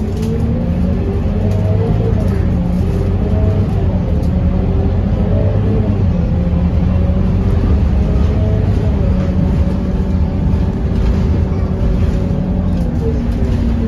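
Diesel engine of a Scania K230UB city bus running under way, a steady low rumble with a fainter whine that slowly rises and falls in pitch.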